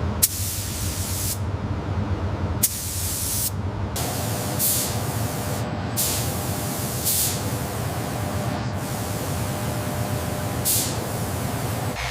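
Steady spraying hiss over a low machine hum, its tone shifting abruptly several times.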